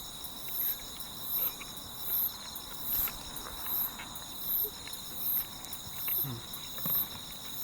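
Insects singing in chorus, crickets among them: a steady high trill overlaid by a very high pulsed call that repeats about once every three-quarters of a second.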